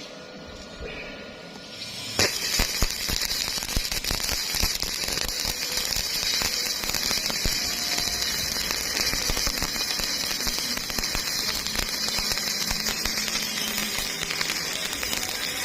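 Electric welding arc struck about two seconds in, then crackling and sizzling steadily as a bead is laid.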